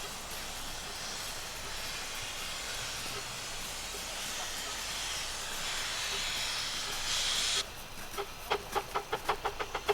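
Steam locomotive blowing off steam, a steady hiss that grows louder and then cuts off suddenly about three-quarters of the way in. It is followed by a quick run of short, pitched pulses, about five a second.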